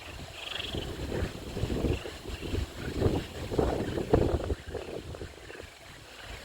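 Wind gusting across the microphone, a low buffeting rumble that swells and drops unevenly. A few faint high calls sound in the first second.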